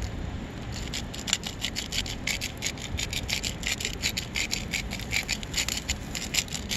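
Hand-twisted spice mill grinding seasoning: a quick run of dry, rasping grinding strokes, about three or four a second, starting about a second in.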